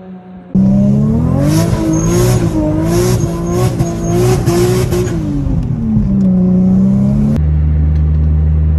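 Car engine revving hard, its pitch climbing, wavering and dropping as the car is driven for drifting, cutting in suddenly about half a second in. For the last second or so the engine holds a steady note.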